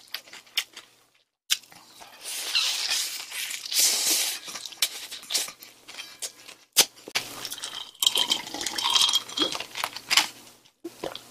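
Close-miked chewing of a mouthful of gimbap, with scattered sharp clicks and a brief moment of silence about a second in.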